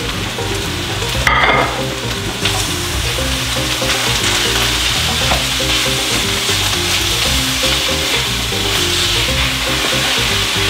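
Cubed red meat and sliced onions sizzling in hot oil in a stainless steel frying pan: a steady, dense hiss. A wooden spoon stirs and scrapes through the pan, with a brief louder sound about a second in.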